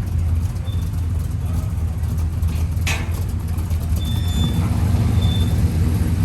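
A motor vehicle engine running with a steady low rumble. A sharp click comes about three seconds in, and a few short high-pitched tones sound near the end.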